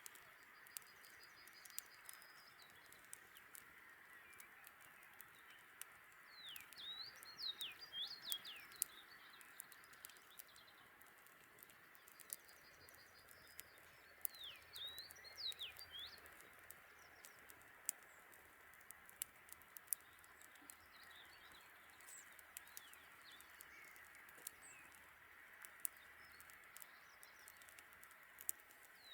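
Faint campfire crackling, with many small sharp pops throughout. Songbirds chirp in three short spells of quick rising and falling calls.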